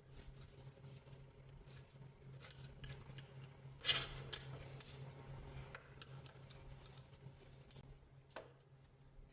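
Hand tools working on a motorcycle's rear wheel and chain adjusters: scattered small metallic clicks and scrapes, with one sharp metal clack about four seconds in. A steady low hum sits underneath.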